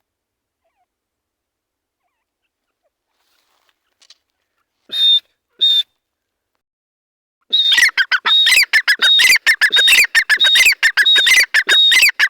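Male grey francolin (teetar) calling: two short loud notes about five seconds in, then a fast run of loud, repeated harsh calls from about halfway through.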